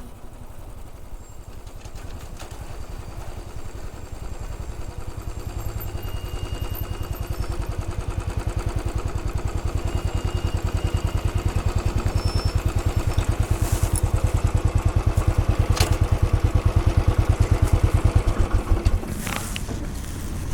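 Royal Enfield Bullet 500's single-cylinder engine running, a fast even train of exhaust pulses that grows steadily louder and stops about a second before the end.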